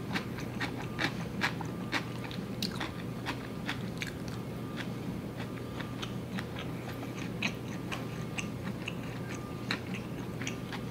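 Close-up chewing of a mouthful of spicy instant noodles mixed with black bean noodles, with many small, irregular wet mouth clicks and smacks.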